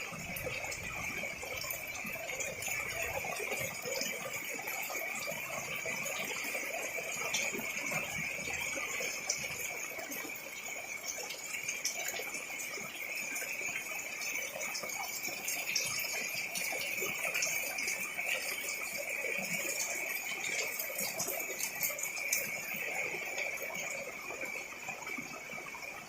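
Heavy rain falling steadily, with many sharp drop ticks, over a steady high-pitched hum that runs throughout.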